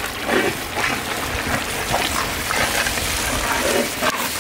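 Chunks of boiled buffalo liver tumbling from a colander into hot masala in a large wok, the masala sizzling and the pieces knocking as they land, with a long ladle stirring them in.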